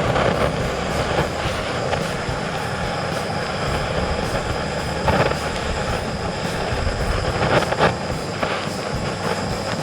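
Fire burning inside a hollow birch-log stove, a steady rushing roar with scattered crackles as the kindling and birch wood catch.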